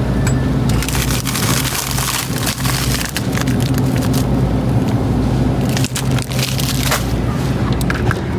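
Steady low vehicle hum with a dense crackling, crunching noise over it in two stretches, about a second in and again near the end.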